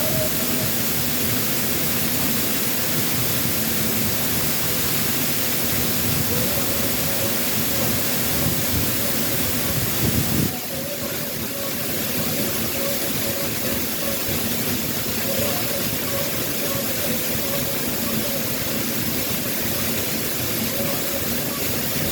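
Waterfall after a typhoon: a steady, dense rush of falling water. There is a brief louder moment about ten seconds in.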